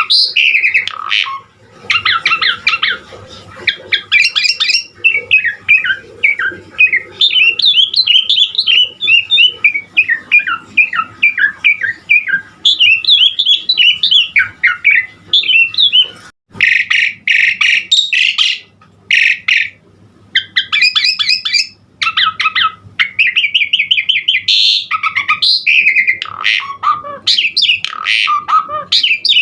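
Asian pied starling (jalak suren) singing in full voice: a long, varied run of chattering, whistled and harsh squawky phrases packed with mimicked fills. There is a brief break about halfway through.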